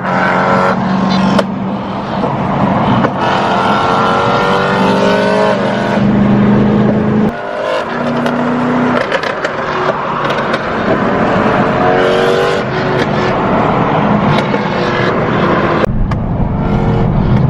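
BMW M3's S65 V8 running through an aftermarket valved exhaust while the car accelerates, the exhaust note climbing in pitch through the revs and dropping back at gear changes, about seven seconds in and again later on.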